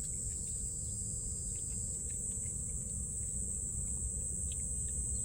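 Insects chirring in a steady, unbroken high-pitched drone, over a low background rumble.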